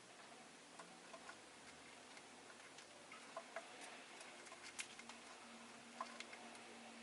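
Faint, irregular small clicks and taps from rosy-faced lovebirds moving and pecking about, a handful of them scattered over a few seconds, over a low background hum.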